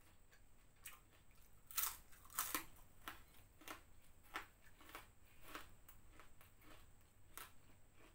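Mouth crunching on crisp prawn crackers (kerupuk udang), picked up close by a clip-on microphone: two loud crunches about two seconds in, then softer crunches as she chews, roughly every half second.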